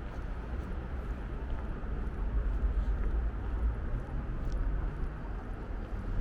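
City street ambience: a steady rumble of road traffic with a few faint ticks.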